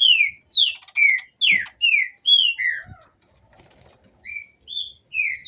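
Green-winged saltator (trinca-ferro) singing: a quick run of loud, clear whistled notes, mostly falling slurs, for the first three seconds, then a pause and two more notes near the end.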